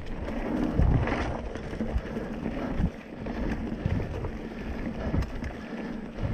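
Mountain bike rolling over a dirt trail: a steady rumble of wind on the microphone and tyre noise, with scattered knocks and rattles from the bike over bumps.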